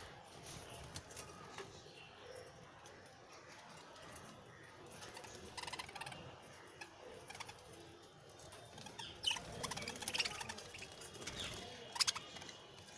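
Budgerigars chirping softly in short, scattered calls, with sharp clicks here and there; the loudest click comes near the end.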